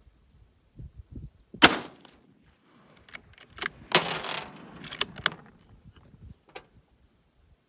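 A 7x64 hunting rifle fires one shot about a second and a half in. Shortly after, the bolt is worked to chamber the next round: a quick run of sharp metallic clicks and a sliding rattle as the spent case is ejected.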